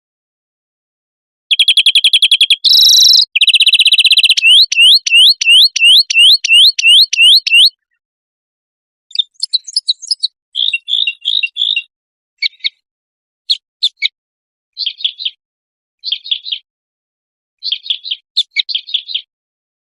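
Songbird song from an edited birdsong recording. A fast trill of repeated notes gives way to a run of rising whistled notes, about three a second, then after a pause to short chirps and clicks in small clusters, with silent gaps between phrases.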